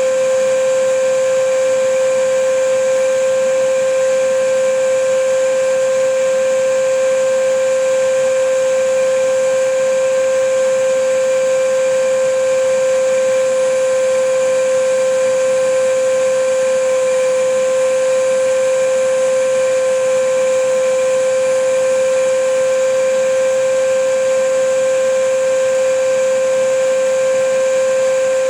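Vacuum cleaner running steadily: a constant motor whine over a rush of air, unchanging in pitch and loudness.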